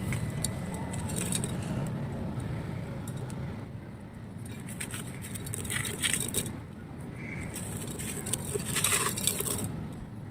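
Dry clay being crushed and crumbling, a gritty crackling crunch that comes in clusters, loudest about six seconds in and again around nine seconds, over a low steady rumble.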